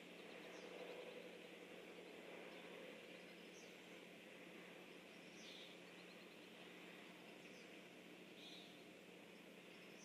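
Faint, scattered short bird chirps, about six in all, some sliding downward, over a steady electrical hum and hiss.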